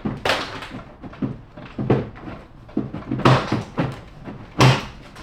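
Irregular knocks and clunks, about six in all, of a car's plastic front bumper cover being pulled and worked loose from its mounts.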